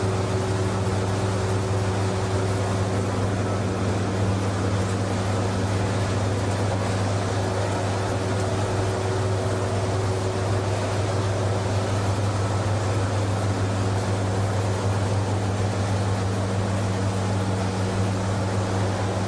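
PE/PP plastic washing line machinery running steadily: a constant electric-motor hum under a broad, even mechanical noise.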